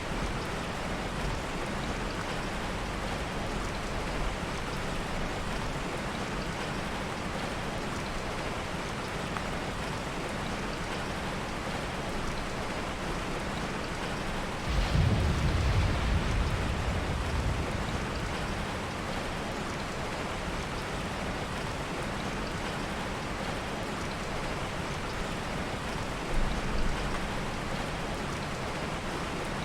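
Heavy rain, a steady dense hiss, with a low roll of soft thunder swelling about halfway through and fading over a few seconds, and a shorter low rumble near the end.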